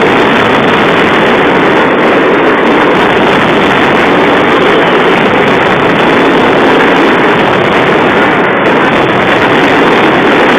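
Dense daytime firework barrage: a loud, steady wall of crackling with no separate bangs standing out.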